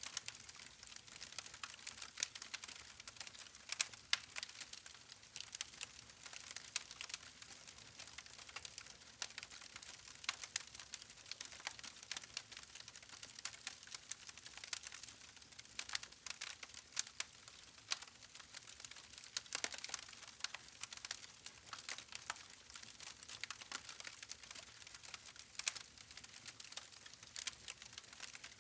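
Wood campfire crackling: a steady faint hiss of burning logs with frequent irregular snaps and pops.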